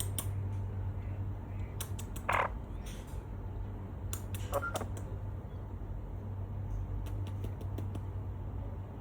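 Amazon parrot giving a short harsh squawk about two seconds in and a brief, softer call a couple of seconds later, between scattered sharp clicks. A steady low hum runs underneath.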